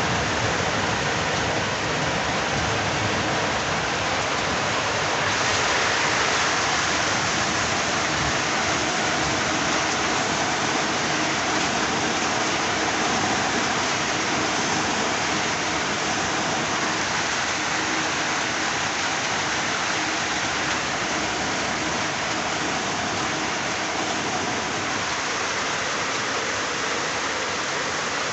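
Heavy rain falling steadily, an even hiss of rain without a break.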